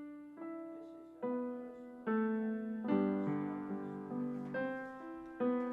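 Background music: slow, gentle solo piano, single notes and chords struck about once a second and left to fade.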